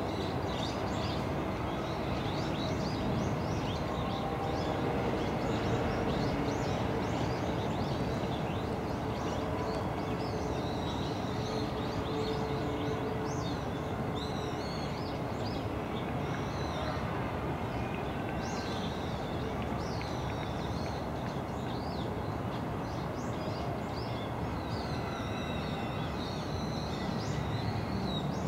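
Small birds chirping and twittering on and off throughout, over a steady low background rumble.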